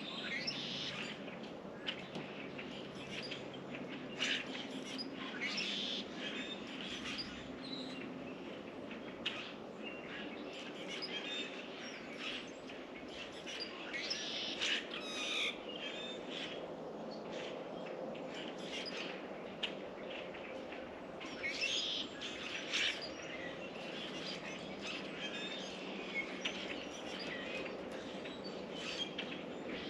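Birds chirping and calling again and again in short, high notes, over a steady low background rumble.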